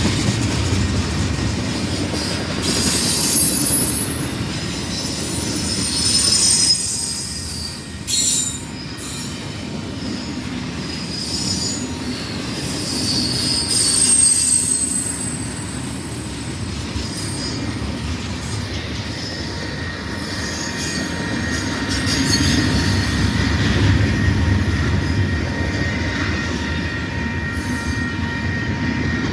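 Freight train rolling past, with steady rumble from the cars and steel wheels on rail and high wheel squeal that comes and goes, loudest about three seconds in and again near the middle.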